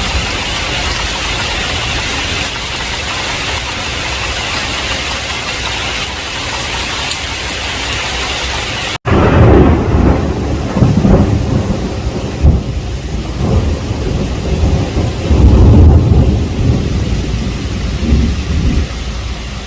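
Heavy rain, an even hiss for the first half. About nine seconds in it cuts out for an instant, then a long rolling peal of thunder rumbles for about ten seconds, with several sharper cracks, over lighter rain.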